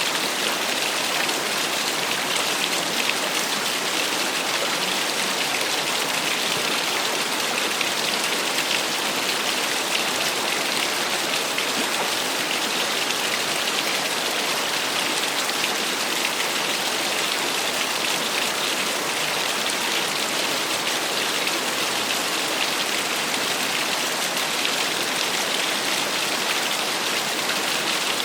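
Small waterfall splashing steadily, a constant even rush of falling water.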